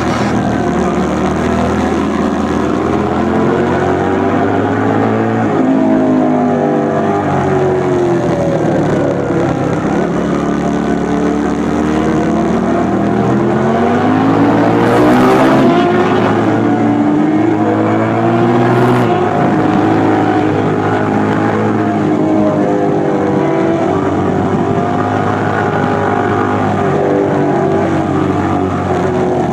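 A 2004 Suzuki SV1000S's 90-degree V-twin running through a LeoVince SBK exhaust, its pitch rising and falling again and again as the throttle is opened and eased off.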